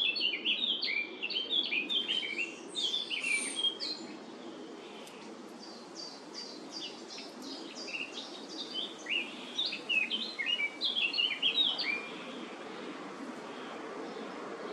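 Birds chirping in quick, overlapping series of short high notes, busiest at the start and again past the middle, then dying away near the end, over a steady low background rumble.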